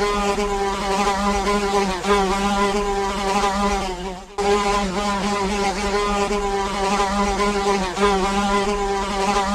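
Fly buzzing: a steady, slightly wavering drone that dips and breaks briefly about four seconds in, then resumes.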